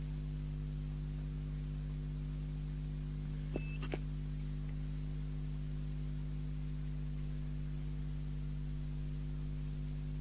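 Steady electrical mains hum from the radio-servicing bench. About three and a half seconds in there is a click and a short high electronic beep, then a second click just after.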